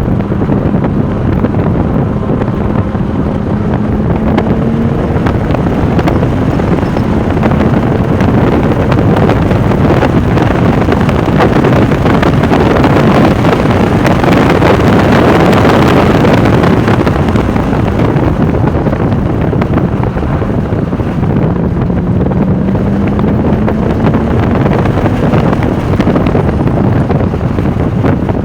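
Porsche 996 Turbo's twin-turbo flat-six under load at track speed, buried in heavy wind and road noise on the microphone. The engine note rises in pitch near the start and again a little past the middle as the car accelerates, and the rushing noise is loudest around the middle.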